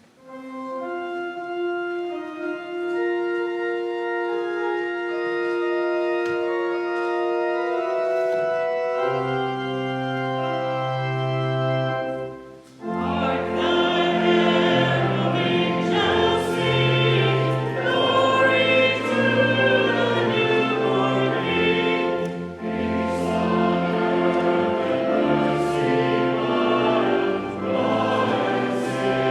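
Organ playing sustained chords as an introduction, with deep bass notes coming in about nine seconds in. A few seconds later many voices join in, singing a hymn with the organ.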